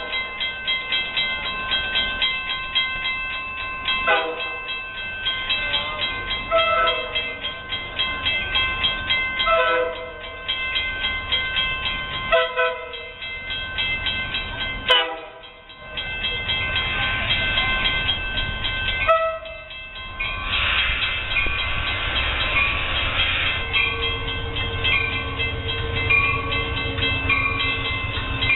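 Amtrak train passing on the rails, with steady high ringing tones throughout and a short falling tone every few seconds; the low rumble grows in the second half.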